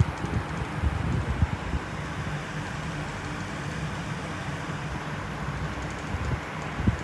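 Outdoor storm noise: a steady rushing with irregular low gusts buffeting the microphone, strongest in the first couple of seconds.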